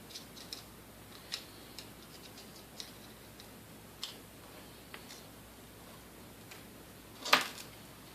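Scattered small metal clicks and ticks of hand tools working the motor's brush holder and cotter pins, with one louder clack a little over seven seconds in.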